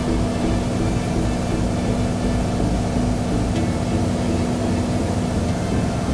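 Beechcraft Bonanza's piston engine and propeller running steadily, a constant low drone with a steady hum in it.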